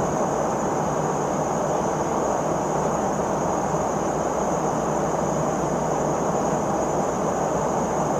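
Steady drone of a Boeing P-8 Poseidon patrol aircraft's cabin in flight, engine and airflow noise heard from inside, with a thin high whine over it and no change throughout.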